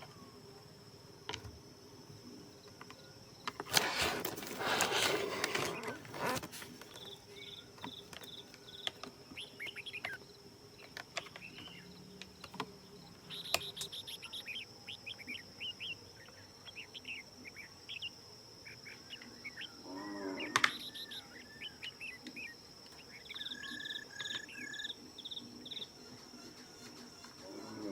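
Steady high-pitched insect drone, like crickets, with scattered bird chirps and short repeated calls. A few seconds in, and again about two-thirds through, louder bursts of rustling, clattering noise rise over it.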